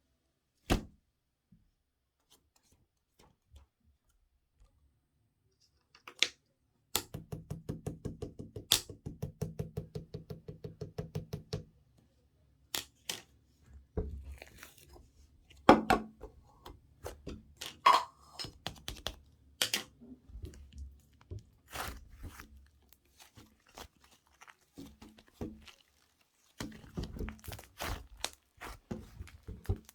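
Slime being pressed and pulled by hand, making sharp clicking pops and crackles. About seven seconds in comes a steady run of quick clicks, roughly eight a second for about five seconds, followed by scattered louder pops and crackling.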